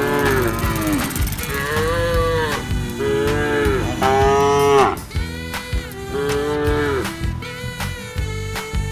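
Cattle mooing: about five moos in a row, each under a second long, rising and falling in pitch. Background music with a steady beat plays under them.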